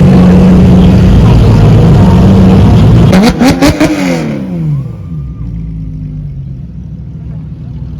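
A car's engine held at high revs under hard acceleration, loud and steady. About three seconds in the revs drop with a quick run of exhaust pops and crackles. The engine note then falls in pitch and fades as the car pulls away.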